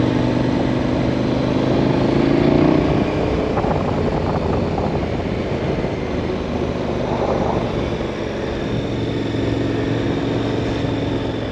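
KTM 1090 Adventure R's 1,050 cc LC8 V-twin engine running steadily as the bike is ridden, with wind and tyre noise over it. The engine note climbs a little in the first few seconds, then holds.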